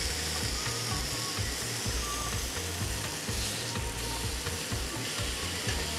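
Steady sizzle of thin pounded chicken pieces and halloumi frying in a pan.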